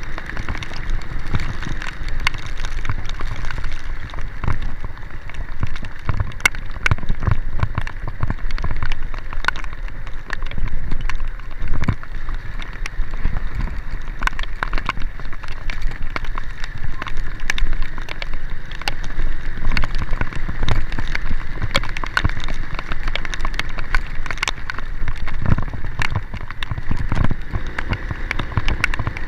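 Heavy rain with many sharp drop hits, over the low steady rumble of a vehicle driving.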